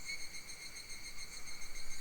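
Summer forest insects, such as cicadas or crickets, droning steadily in a continuous high-pitched chorus.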